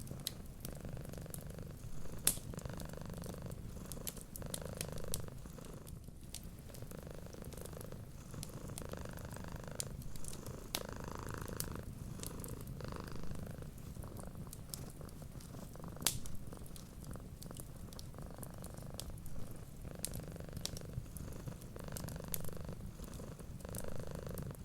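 A cat purring steadily, the purr swelling and easing with each breath in and out. Sparse crackles and pops from a wood fire sound over it, the sharpest about two seconds in and again around sixteen seconds.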